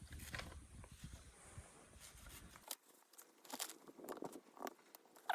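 Green chillies being crushed: faint, irregular crunches and knocks.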